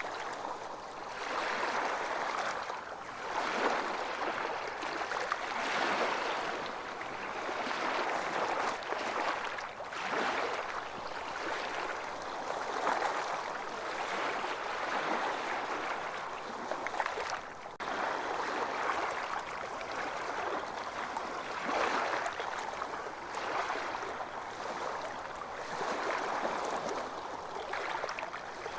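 Ocean waves washing onto a beach, the surf swelling and ebbing every few seconds.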